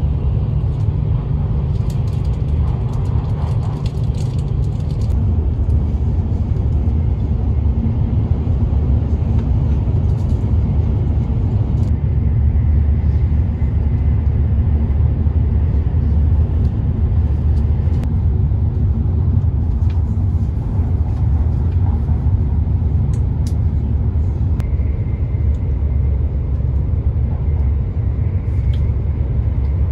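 Hokuriku Shinkansen train running at speed, heard inside the passenger cabin: a steady, loud low rumble of wheels, track and running gear with an even rush of air noise.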